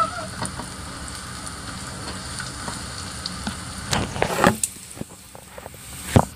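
Chopped garlic and ginger sizzling in hot oil in a frying pan as they are stirred with a spatula. About four seconds in there is a quick cluster of louder knocks and scrapes, and one more sharp knock near the end.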